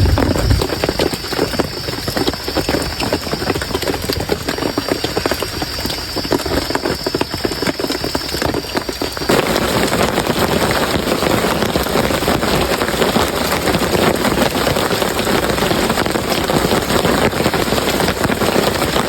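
Heavy rain pouring down, a dense hiss of countless drops. About nine seconds in it becomes abruptly louder and denser. A faint steady high tone runs under it until then.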